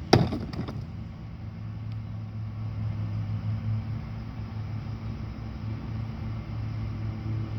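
Mack Granite rear-loader garbage truck's diesel engine running steadily with a low hum. A single sharp bang sounds right at the start.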